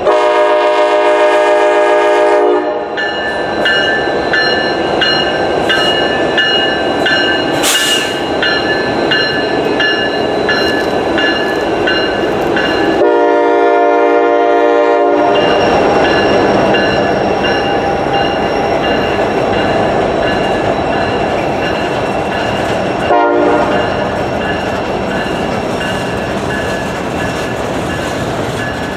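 Norfolk Southern diesel freight train passing, its locomotive air horn sounding a long blast at the start, a second long blast about 13 seconds in, and a short toot near 23 seconds. Between the blasts the locomotives and loaded gondola cars rumble and clatter past, with a steady, rapidly repeating high ringing over them.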